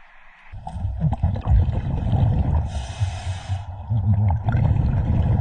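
Underwater sound through a diver's camera: a steady low rumble of moving water that starts about half a second in, with one hissing burst of scuba exhaust bubbles from the regulator about halfway through.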